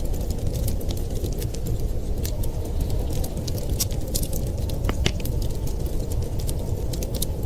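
Wood fire crackling in a fireplace, with frequent small sharp snaps and one louder pop about five seconds in, over a steady low rumble.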